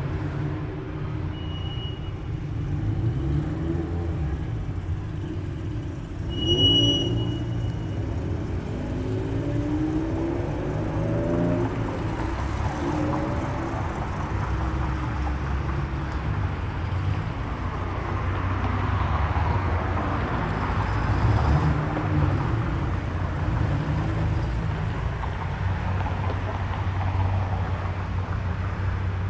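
Car engines running at low speed as cars roll past, one accelerating with rising engine pitch about six seconds in, with a short high beep at the same moment.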